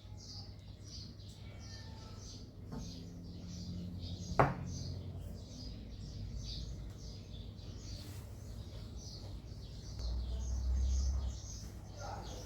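Small birds chirping over and over in the background, with a low steady hum under it and a single sharp knock about four seconds in.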